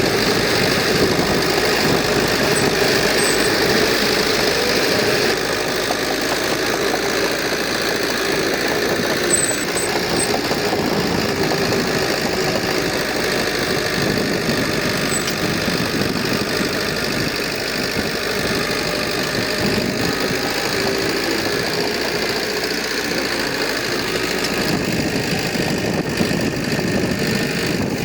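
Heavy construction machinery's diesel engine running steadily under work, with a slight drop in level about five seconds in.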